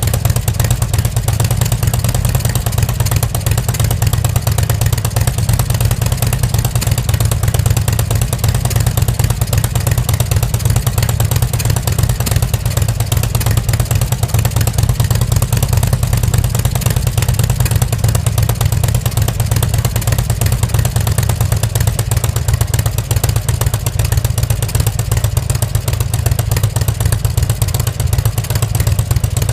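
2004 Harley-Davidson Sportster XL1200R's air-cooled V-twin idling steadily through its stock North American-spec muffler, with a low, even exhaust note.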